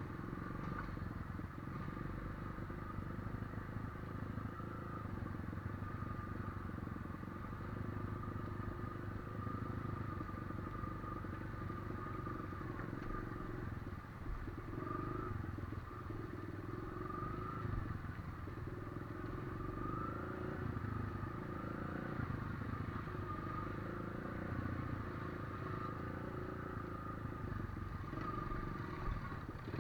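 Daihatsu Feroza's engine running steadily while driving, with a faint whine that wavers slightly in pitch.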